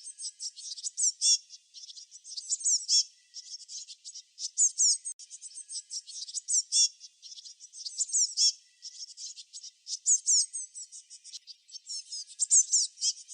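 Songbirds chirping and twittering in quick high-pitched bursts, many short notes with falling slurred whistles, a new burst every second or two.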